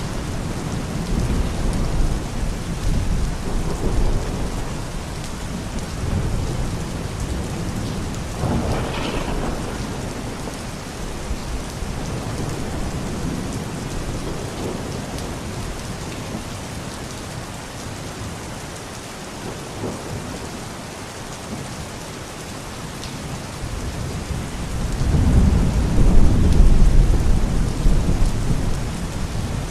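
Steady rain with low rolling thunder. A louder rumble swells up near the end.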